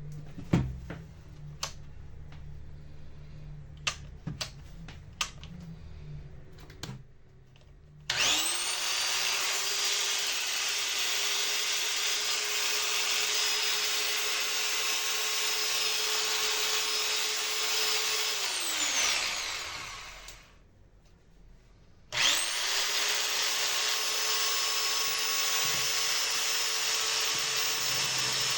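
A few handling clicks and knocks. Then a Black+Decker 7750 angle grinder is switched on, spins up to a steady whine, runs for about ten seconds, and winds down when switched off. It starts again about 22 seconds in and runs steadily to the end. This is a no-load test run on freshly replaced bearings, and the motor runs smoothly.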